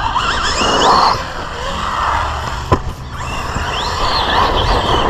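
Team Associated Rival MT10 RC monster truck's 3S brushless motor whining, rising in pitch as it is throttled up, easing off, then throttled and wavering again. A single sharp knock about two and a half seconds in.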